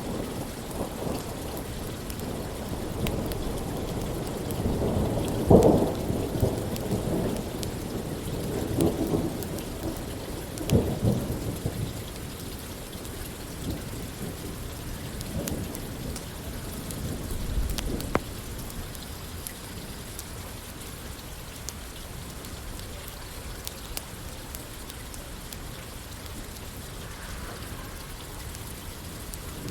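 Steady rain with rolling thunder: several low rumbles swell and fade in the first dozen seconds, the loudest about five seconds in, then the rain goes on alone with a few faint sharp clicks.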